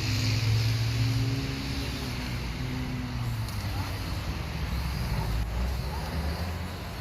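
A motor vehicle engine running with a low, steady hum. It eases off a little after about two seconds.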